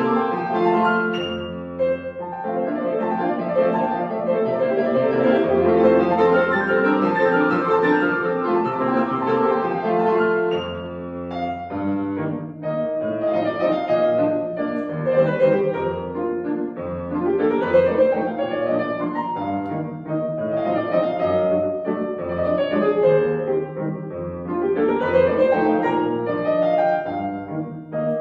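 Solo piano playing classical music at a lively pace, with quick runs sweeping upward about seventeen and twenty-five seconds in.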